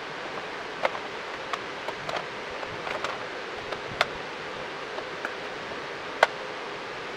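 Irregular light clicks and taps of parts and hand tools being handled, about seven in all, the sharpest about six seconds in, over a steady background hiss.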